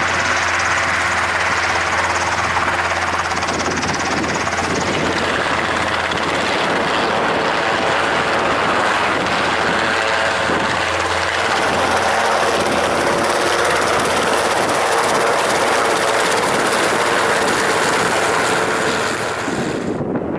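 Shorts Tucano T1's Garrett TPE331 turboprop engine running steadily, with propeller noise and a hissing turbine whine.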